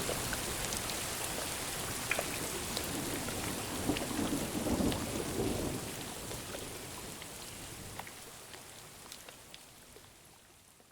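Thunderstorm: steady rain with scattered drop ticks, and a low roll of thunder swelling about four to six seconds in. The storm then fades out gradually toward the end.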